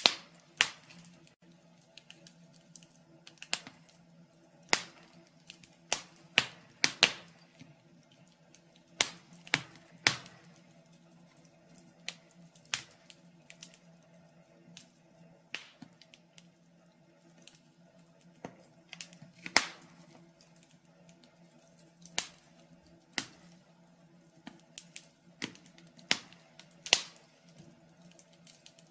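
Wood fire in a fireplace crackling, with irregular sharp pops and snaps at uneven intervals, some much louder than others, over a faint steady low hum.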